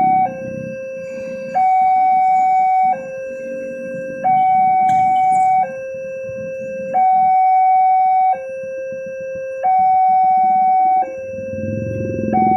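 Railway level-crossing warning signal: an electronic alarm alternating steadily between a higher and a lower tone, each held about a second and a half. A low rumble runs underneath and swells near the end.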